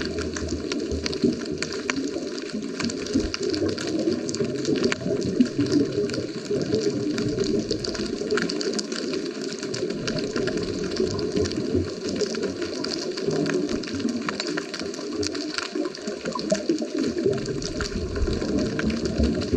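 Underwater ambience picked up by a GoPro on a scuba dive: a steady muffled rumble with dense, fine crackling clicks throughout.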